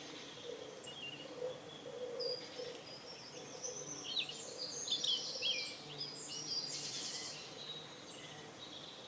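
Morning bird ambience: many small birds chirping and twittering in short high calls, busiest in the middle, with pigeons cooing low underneath.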